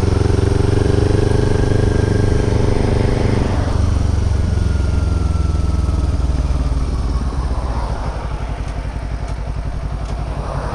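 Kawasaki Ninja 400's parallel-twin engine running at low speed. The revs drop about three and a half seconds in, and the engine settles to a low, pulsing idle near the end.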